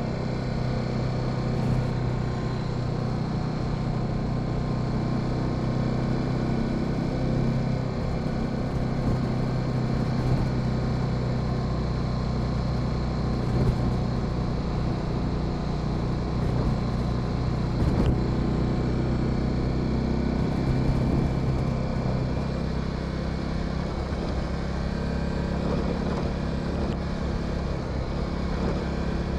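Honda Sahara 300 single-cylinder engine running steadily while the motorcycle cruises, with a few light clicks along the way.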